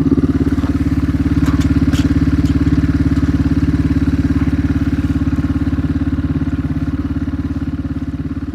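K-Moto ATX moped's small engine running steadily at a constant speed, its fast, even firing beat clearly audible.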